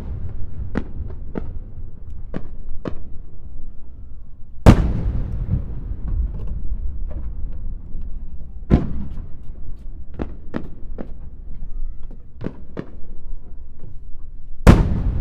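Fireworks display: aerial shells bursting with sharp booms, the three loudest about 5, 9 and 15 seconds in, each trailing off in an echo, with smaller cracks between them over a steady low rumble.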